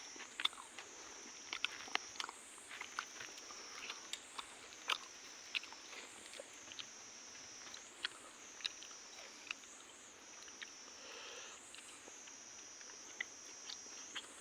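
Close-up chewing and biting of fried magur fish with rice, with many short crunchy clicks. Behind it, a high buzzing drone of insects swells about every two seconds.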